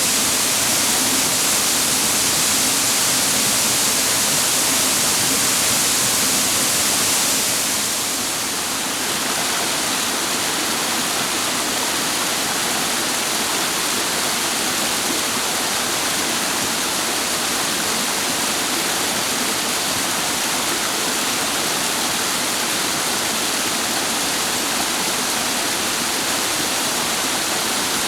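Rushing water of a mountain stream and waterfall pouring over rocks, a steady dense hiss. About eight seconds in, the brightest part of the hiss falls away and the flow settles a little lower and softer.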